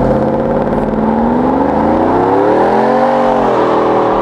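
Truck engine revving once: its pitch climbs from about a second and a half in, peaks around three seconds, then drops back to a steady run.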